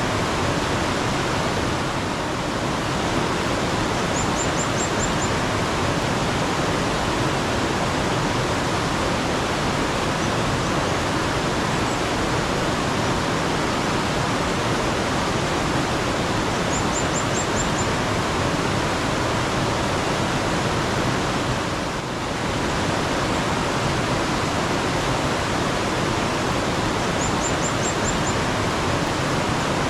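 Steady rushing and splashing of a mountain stream. A small bird calls three times over it, each call a short, high run of five or six quick notes.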